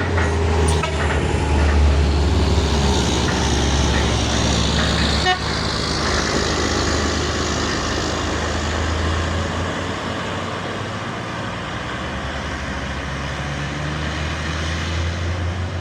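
Heavy truck engine running loud and steady, easing slightly in level in the second half, with one sharp click about five seconds in.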